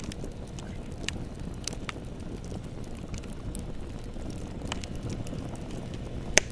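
Bonfire crackling over a steady low rumble, with scattered pops and one sharp, loud pop near the end.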